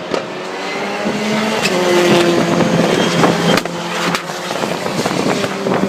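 Rallycross Supercars racing, several engines at high revs overlapping, with their pitch shifting as they accelerate and change gear. A few sharp cracks cut through, about a third and two-thirds of the way in.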